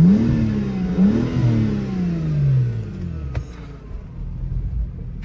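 BMW 128i's straight-six engine revved twice in quick succession, its pitch climbing sharply then sliding back down toward idle over about two seconds.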